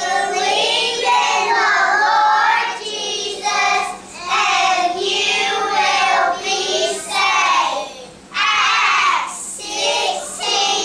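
A class of young children singing together, in sung phrases with short breaks between them.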